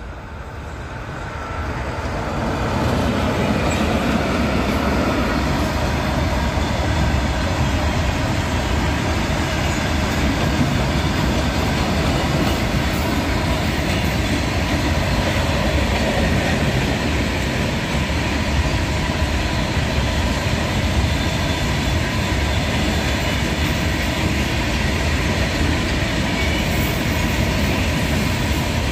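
Freight train of open-top box wagons, hauled by an electric locomotive, passing close by with a steady rumble of wheels on the rails. It grows louder over the first three seconds as the train arrives, then holds steady as the wagons roll past.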